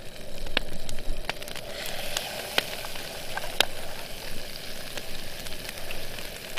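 Campfire crackling: a steady hiss broken by sharp, irregular pops, two of them louder, about two and a half and three and a half seconds in.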